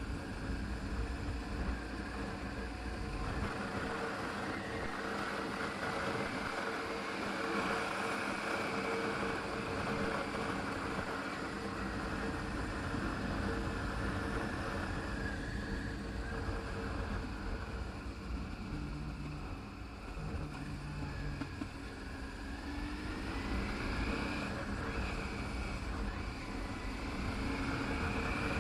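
Adventure motorcycle engine running under way, its pitch rising and falling with the throttle and climbing near the end, over wind and road noise on the microphone.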